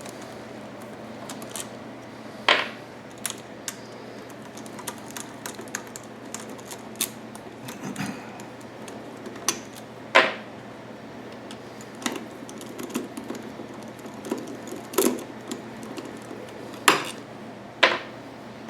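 Scattered clicks, taps and metallic clinks of hand tools and small metal parts as the valve cover is unbolted and worked off a small single-cylinder generator engine, with a few sharper knocks standing out over a steady low hum.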